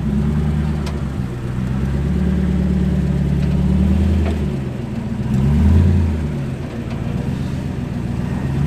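Off-road Jeep engine running and being throttled on and off as it crawls the trail. Its pitch rises and falls, with a louder rev a little before six seconds in.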